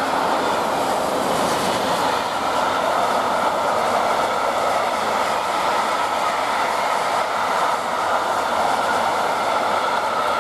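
Freight train hauled by a Class 66 diesel locomotive passing through the station: a steady rumble of wagon wheels on the rails.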